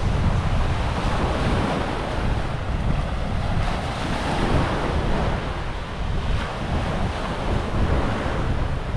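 Surf washing onto the beach in gentle swells, with wind buffeting the microphone in a steady low rumble.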